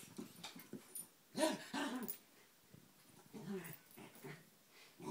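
Dogs at play giving short growls and whines, loudest about a second and a half in and again a little past the middle.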